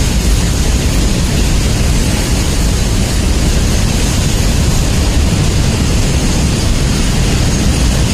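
Freight train of covered goods wagons passing at speed, a loud, steady noise of wheels on rails with a heavy low end.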